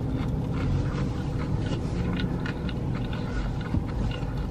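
A man chewing a mouthful of fried fast food with his mouth closed: soft, irregular mouth clicks and squelches over a steady low rumble in a car's cabin.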